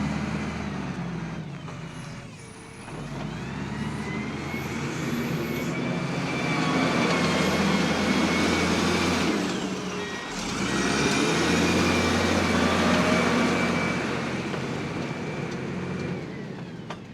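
Heavy truck's diesel engine running and pulling twice as the truck is manoeuvred, each time with a high whine that rises and then holds, dropping back in between; it fades near the end.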